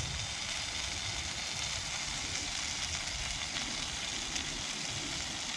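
A burger patty and onion slices sizzling steadily on a cast iron griddle, frying on the griddle's leftover heat with the gas stove turned off.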